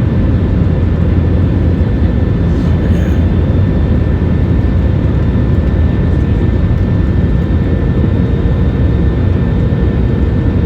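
Passenger jet airliner running steadily: a constant low engine and air roar with faint steady whining tones above it.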